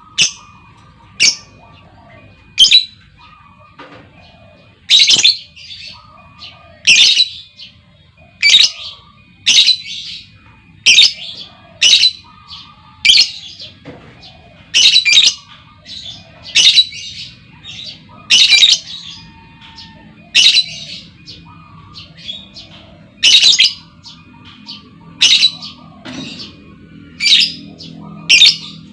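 Female lovebird calling: short, shrill, high chirps repeated every second or two, with softer twittering in between. These are the calls used as a lure to set other lovebirds chattering.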